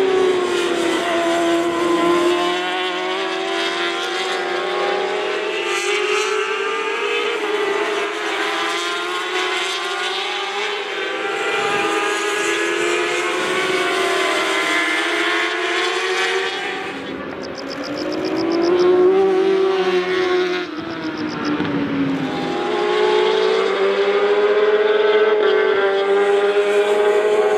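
J-GP2 road-racing motorcycles' high-revving engines at full race pace, the engine note climbing and falling again and again through gear changes and corners.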